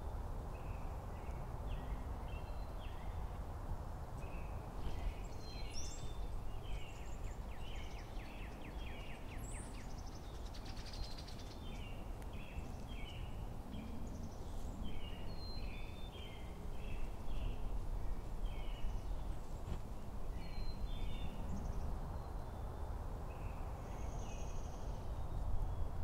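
Birds giving short chirping call notes again and again, with a quick run of notes about ten seconds in, over a steady low outdoor rumble.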